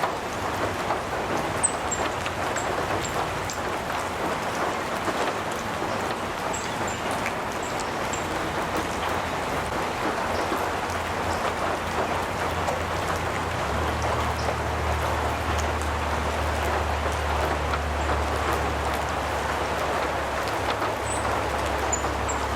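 Steady rain pattering on a metal roof, with short, high bird chirps a few times. A low, steady hum comes in a little past halfway.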